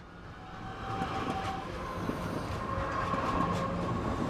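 Electric suburban local train (EMU) running on the rails: a low rumble with wheel clatter that grows louder over the first second and then holds, with a high steady whine over it.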